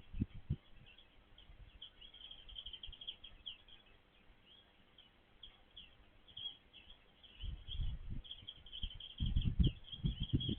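Small birds chirping in quick, high-pitched runs of short notes, with low rumbling thumps about seven and a half seconds in and again near the end.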